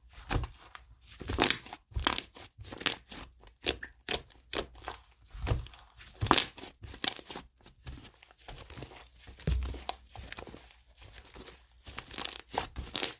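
Caprese cream slime being stretched, squished and poked by hand, giving irregular sticky pops and crackles a few times a second.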